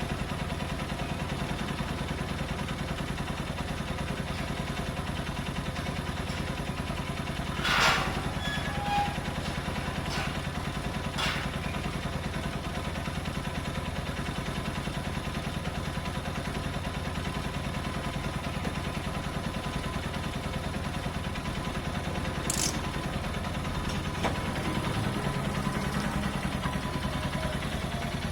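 Keeway 125cc motorbike engine idling steadily at an even speed, with a few short clicks and knocks over it.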